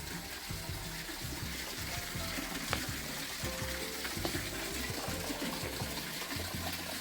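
Running water, a steady splashing flow, over background music with a repeating low bass line.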